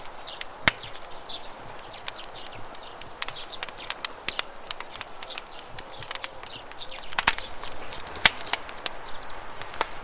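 Wood campfire crackling, with irregular sharp pops and snaps, over the steady rush of a river.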